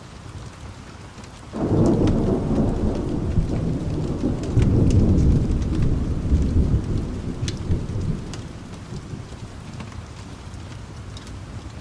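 A thunderclap that breaks in suddenly about a second and a half in, then rolls and rumbles for several seconds before dying away, over steady rain.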